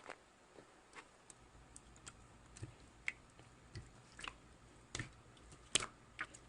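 Faint, irregular light clicks and taps, about two or three a second, unevenly spaced.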